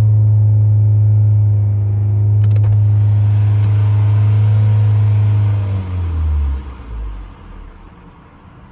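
Loud low droning hum from a 2009 Toyota Camry LE under acceleration, the 'vooo' noise that comes with pressing the gas, holding steady and then sliding down in pitch and fading out about six seconds in, leaving a low road rumble. Its cause is unknown to the owner.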